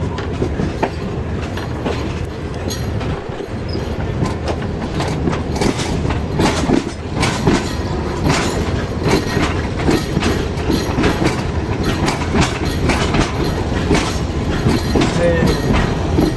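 Pakistan Railways Karachi Express passenger train running on the track: a steady low rumble with the wheels clacking over rail joints, the clacks coming more often from about six seconds in.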